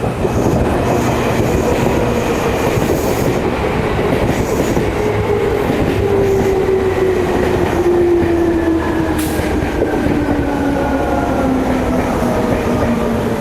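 Electric commuter train pulling into a station platform and braking. Its motor whine falls steadily in pitch as it slows, over the running noise of wheels on rails.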